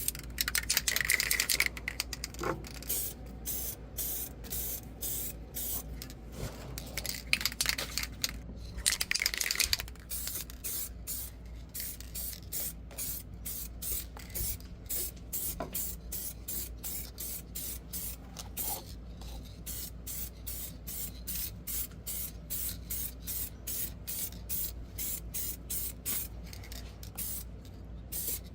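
Black paint being sprayed onto a truck frame rail: hissing in many short, quick bursts, about two to three a second, with a few longer sprays in the first ten seconds, over a steady low hum.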